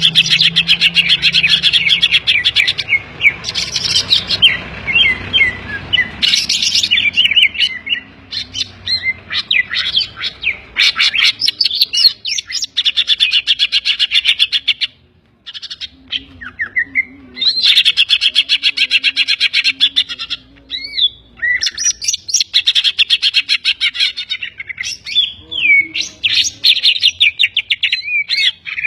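Cucak ijo (green leafbird) singing loud, rapid chattering phrases in long bursts with short pauses. Its song is filled with mimicked kapas tembak and tengkek (kingfisher) calls.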